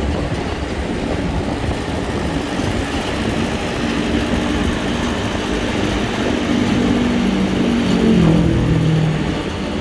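Road traffic with wind and road noise and the hum of a nearby motor vehicle's engine. About eight seconds in the vehicle passes close, growing louder, and its pitch drops as it goes by.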